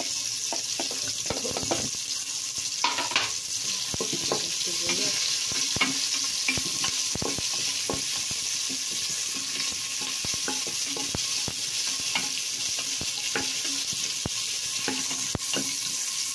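Sliced onions, ginger and garlic sizzling in hot oil in a metal pot as a wooden spatula stirs them. The steady hiss is broken by frequent light clicks of the spatula scraping and tapping against the pot.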